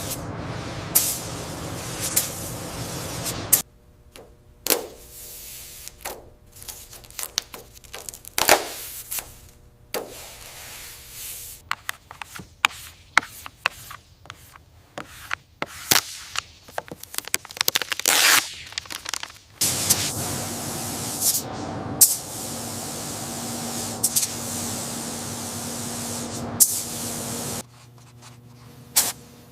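Workshop sounds cut together: many short hissing bursts and rubbing noises, with a steady hum underneath for the first few seconds and again for a stretch after about twenty seconds.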